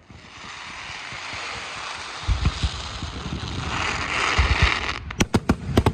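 Fireworks display: a steady hiss with a few low booms, then a quick run of sharp bangs near the end.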